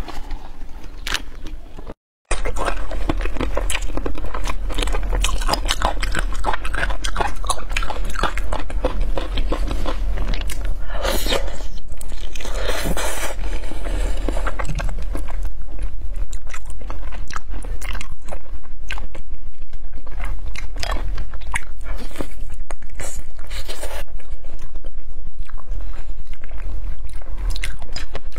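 Close-miked eating of braised chicken feet in spicy sauce: constant wet chewing, biting, sucking and crunching with many small clicks, over a low steady hum. A brief dropout to silence about two seconds in.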